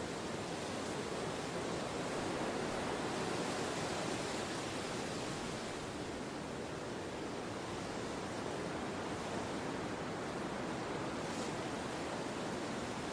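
Steady wind blowing, a soft even rushing that swells slightly a few seconds in and then eases back.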